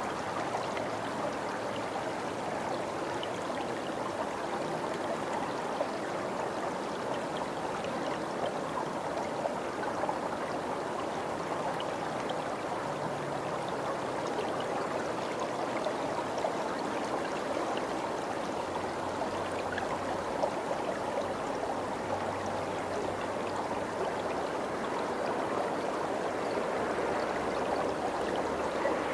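Water of a stream running steadily, an even rushing sound.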